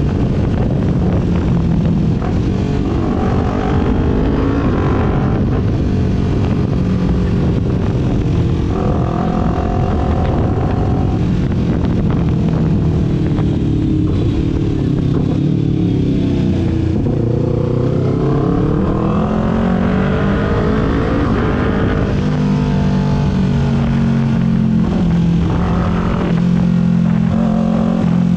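Kawasaki Ninja 400's parallel-twin engine heard from the rider's seat while riding, its pitch rising and falling with throttle and gear changes. About halfway the engine note falls away as the bike slows, then climbs again as it accelerates.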